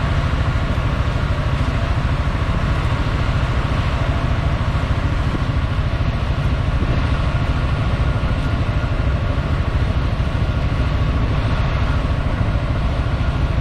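Heavy farm machinery running steadily: a constant low engine drone with a faint steady whine above it, unchanging throughout.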